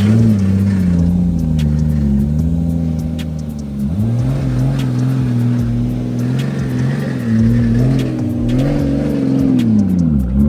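Nissan Y33's engine running and being revved, its pitch climbing and falling several times with a sharp drop near the end, over background music with a steady beat.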